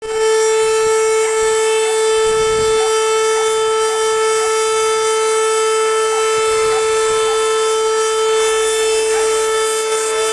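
A siren sounding one steady, unbroken tone at a fixed pitch. Fainter siren tones glide up and down near the end.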